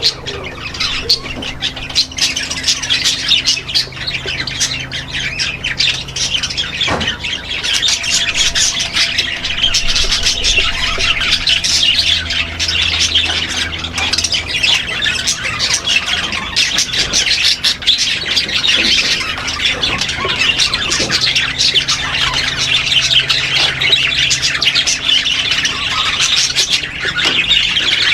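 A large flock of caged parrots, such as lovebirds, chattering and squawking all at once, a dense, unbroken din of many overlapping shrill calls.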